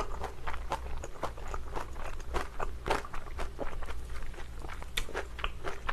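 Close-miked chewing of a mouthful of spicy mixed Chinese glass noodles: wet, sticky mouth clicks at a steady rhythm of about three a second.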